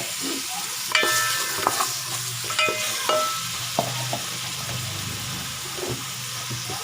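Chopped onions sizzling as they fry in ghee in a pot, stirred with a spoon that scrapes and clinks against the pot a few times with a short metallic ring, the loudest about a second in.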